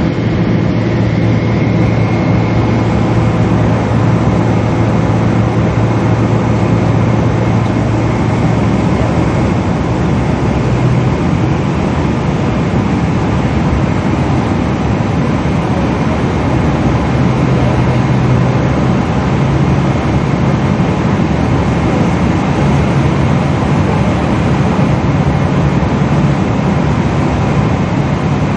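Steady cabin noise inside a Boeing 777 airliner: the even rush of the jet engines and airflow, with a low hum underneath whose pitch shifts slightly about halfway through.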